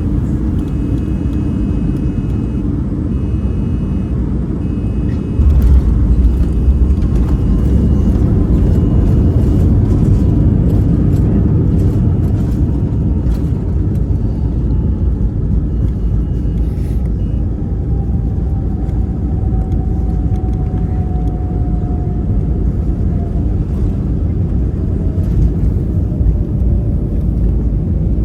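Airbus A320 cabin noise during touchdown and landing roll: a loud, steady rumble that jumps louder with a few knocks about five seconds in, then a whine that slowly falls in pitch as the aircraft slows.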